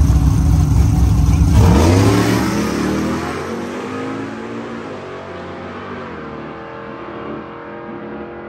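Drag-racing vehicle's engine at full throttle, loud at first. About two seconds in its pitch drops as it passes, then it fades steadily as it runs away down the track.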